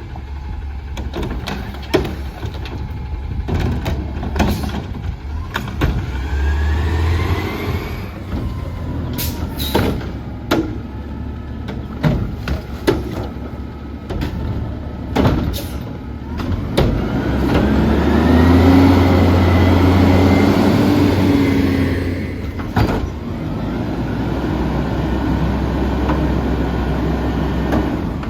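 Autocar ACX garbage truck with its McNeilus body and Curotto-Can arm at work: the diesel engine revs up twice to drive the hydraulics, with a rising hydraulic whine and repeated metal clanks and knocks.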